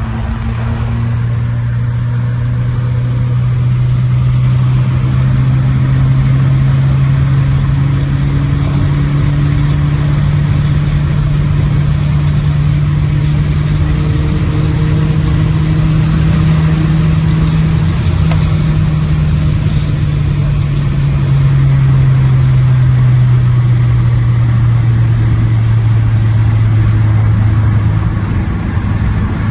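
Saab 9-3 Aero's 2.8 V6 engine, muffler removed and exhaust run through 2.5-inch pipe, running at a fairly steady engine speed. Its note climbs slowly through the first half and eases back down over the second half.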